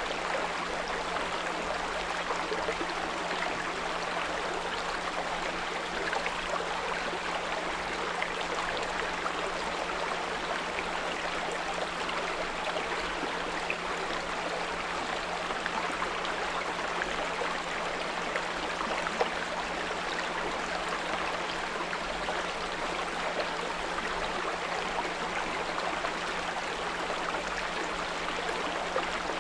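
A small brook running and babbling steadily, with a constant low 174 Hz pure tone humming underneath.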